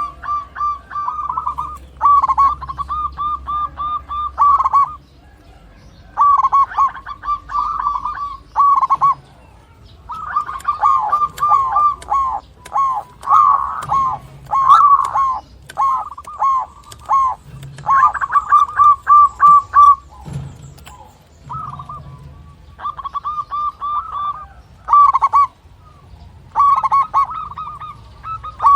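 Zebra dove (perkutut) cooing: phrase after phrase of quick, rolling coos, with short pauses between the phrases.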